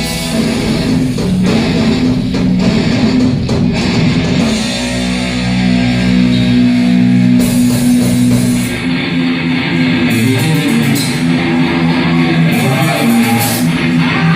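Heavy metal band playing live: electric guitars, bass and drums. About four and a half seconds in, the drum hits drop out under held guitar chords, and they come back a few seconds later.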